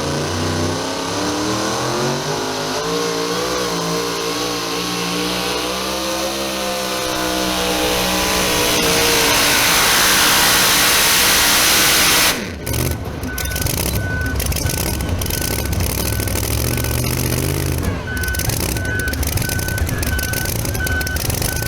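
Supercharged pulling truck's engine under full throttle, the pitch climbing and wavering, then a loud peak that cuts off abruptly about twelve seconds in as the engine is shut down. After that, a lower engine rumble and a steady reversing beeper, about two beeps a second.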